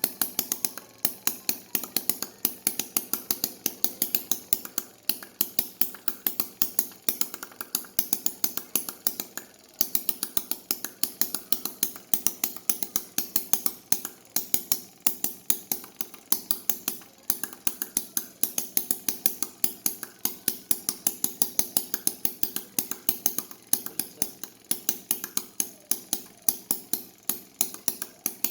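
Miniature internal-combustion engine running, giving a rapid, uneven metallic clacking of several strokes a second, with a brief break about ten seconds in.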